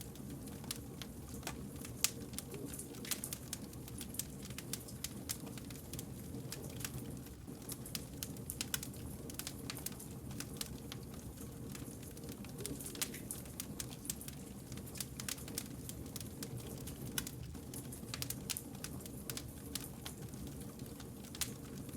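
Wood fire crackling, with frequent small irregular pops and snaps over a steady low rumble of the burning logs.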